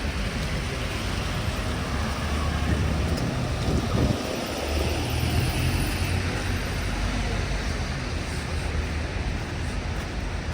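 Steady city street noise: the low rumble of passing traffic under an even hiss, swelling slightly about four seconds in.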